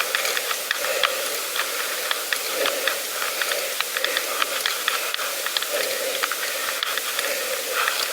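Bicycle tyres rolling over a rough gravel path: a steady hiss with a scatter of small irregular crunches and clicks.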